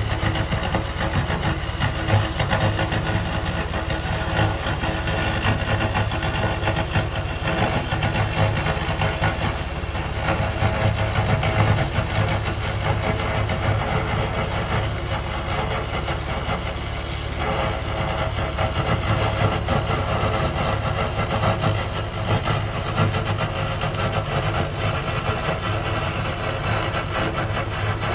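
2000 W laser rust remover running: a steady hiss from the pulsed beam ablating rust off metal, over the unit's constant low hum.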